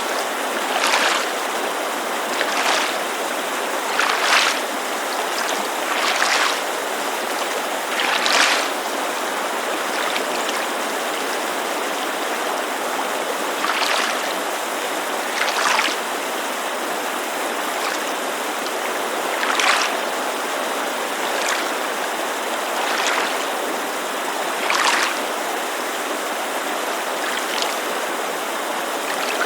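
Small waves lapping against a lakeshore in short, irregular splashes one to four seconds apart, over the steady rush of a mountain creek.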